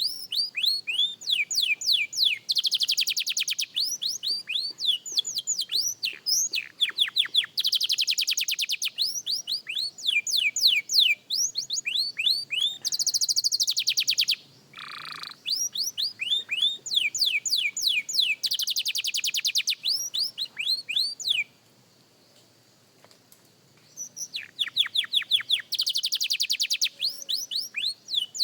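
A young canary practising its song: runs of quick repeated falling notes alternating with very fast buzzing trills, with one lower swooping note partway through. It breaks off for about two seconds near the end, then starts again.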